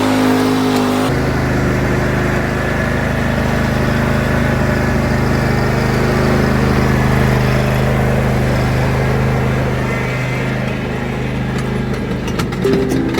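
An engine running steadily. Its note shifts abruptly about a second in, then holds even, with a few clicks and knocks near the end.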